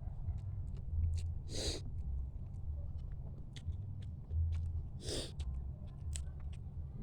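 Close-miked eating of mud crab: scattered sharp clicks and smacks of chewing, with two longer, louder mouth noises about two seconds and five seconds in.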